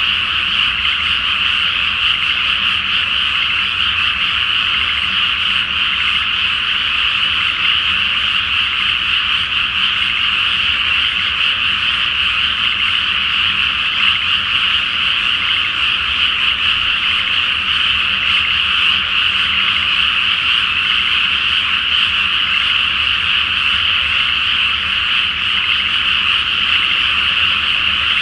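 A large chorus of frogs calling in a flooded rice paddy, many voices overlapping into one steady, unbroken croaking din.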